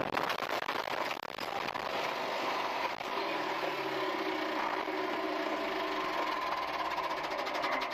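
Car engine running steadily at idle, with a few sharp knocks in the first second or so.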